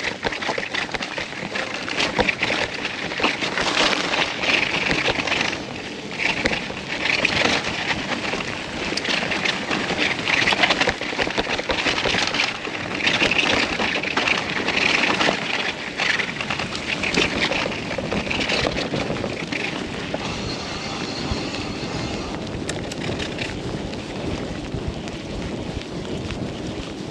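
Mountain bike riding down a rough, muddy trail: continuous tyre noise with rapid rattling and clattering from the bike, and wind on the microphone.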